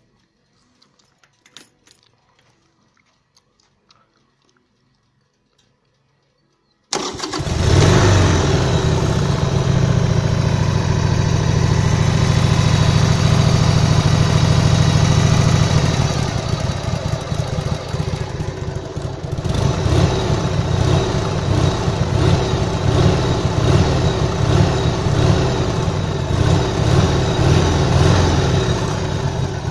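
Harley-Davidson XLH 883 Sportster's air-cooled V-twin starting about seven seconds in, after a few faint clicks, and running at a fast, even idle on the enrichener. About nine seconds later it drops to a lower, more uneven idle as the enrichener knob is worked.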